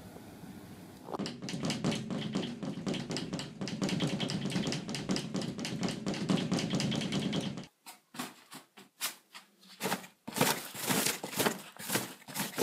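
Rapid tapping and clicking, many strokes a second. It starts about a second in, thins to scattered separate taps for a couple of seconds, then turns dense again near the end.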